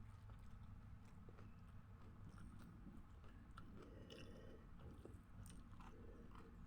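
Faint close-up chewing of food, with small scattered crunches and wet mouth clicks.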